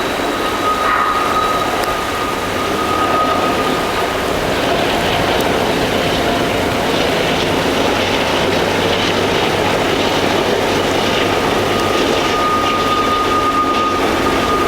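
Train rolling past: a steady, loud rush of wheel and rail noise, with a thin, high whine near the start and again near the end.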